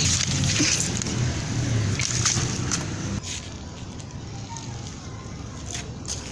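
Wet sloshing and splashing in rain-soaked, waterlogged ground, busier for about three seconds and then dropping off to a quieter wash.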